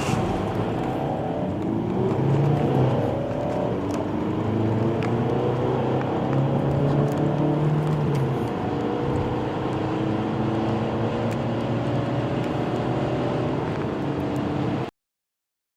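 Diesel car engines accelerating hard through the gears from a standstill: the engine note climbs steadily in pitch, dropping back at each gear change, with more than one rising note overlapping. The sound cuts off suddenly about a second before the end.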